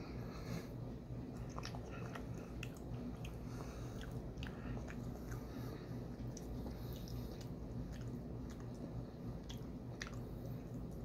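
A person chewing soft taro fudge with the mouth closed, with scattered short wet mouth clicks and smacks.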